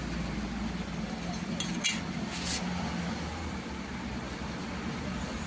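A few sharp metallic clinks, like metal parts or tools knocking together, about two seconds in, over a steady low hum.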